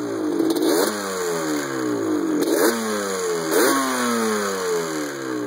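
1987 Yamaha Banshee's 350cc two-stroke twin, fitted with aftermarket DG expansion pipes, revved in three quick throttle blips shortly after a cold start. Each time the revs rise sharply and then fall away slowly toward idle.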